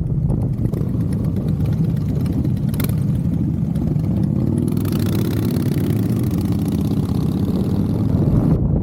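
Motorcycle engine running steadily, with a rushing hiss that joins about five seconds in.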